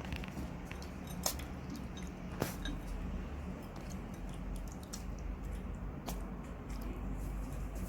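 Raccoon eating a banana: soft squishing with a few sharp clicks, three of them standing out, over a steady low hum.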